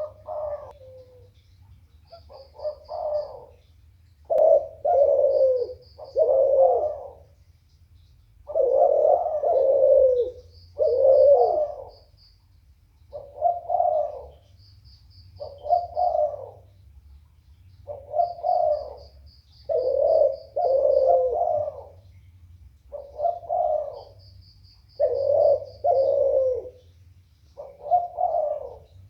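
Puter (Barbary dove) cooing over and over, a rolling coo repeated every second or two and often given in pairs. A short, fast high chirping trill comes every few seconds, over a steady low hum.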